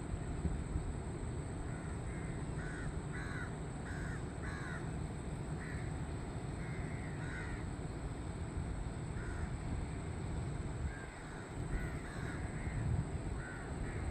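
Crows cawing: short harsh caws repeated in loose groups of two to four, over a steady low background rumble.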